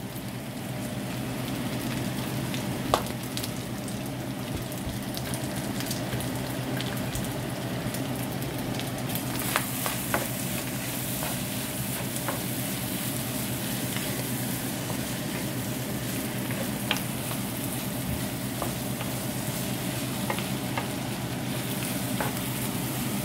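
Chopped pork sisig sizzling in a hot frying pan while a wooden spatula stirs and scrapes through it, with a few short taps of the spatula against the pan. The sizzle turns brighter and hissier about nine seconds in and eases again near the end.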